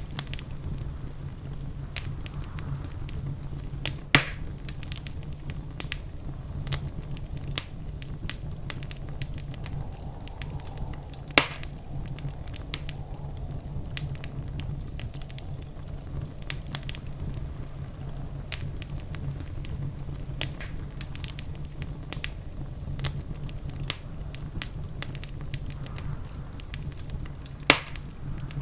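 Wood fire crackling in a fireplace: a steady run of small snaps and ticks, with three louder pops spread through the stretch, over a steady low rumble.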